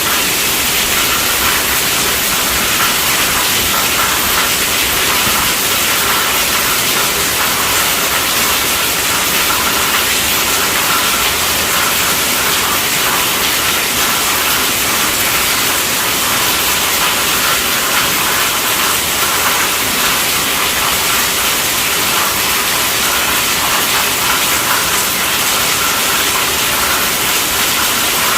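Heavy rain falling steadily on a tent roof: a dense, even hiss of drops on the fabric.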